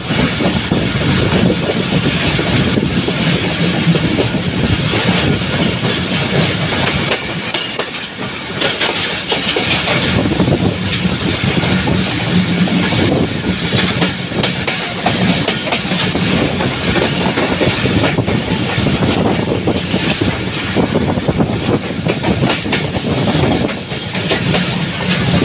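Train passing close by, its wheels and cars rattling steadily over the rails.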